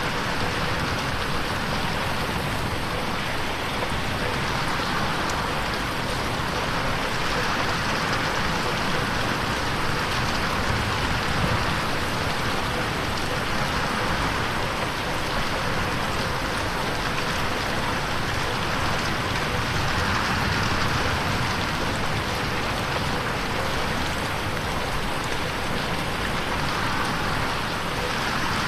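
Steady rain falling on a bedroom window, a dense even hiss that swells and eases slowly, mixed in 8D so it moves around the listener's head.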